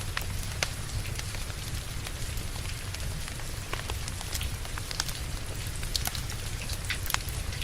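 Steady rain hissing with a low rumble, mixed with a wood fire crackling in a fireplace: irregular sharp pops and snaps scattered throughout.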